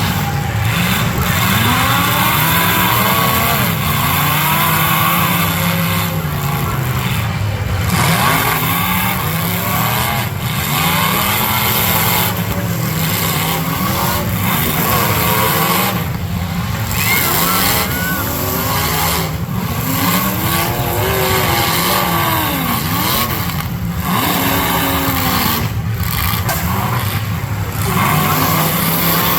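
Demolition derby cars' engines revving up and down again and again, several at once, over a steady loud din.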